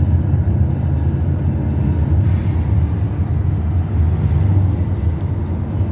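Steady low rumble of a moving car, road and engine noise with no sudden events.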